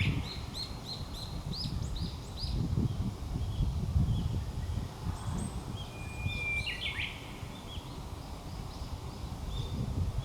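Japanese bush warbler singing: a quick run of repeated high notes at the start, then about six seconds in the classic 'hoo-hokekyo' song, a long held whistle ending in a quick flourish. A low rumble of wind or handling noise sits underneath.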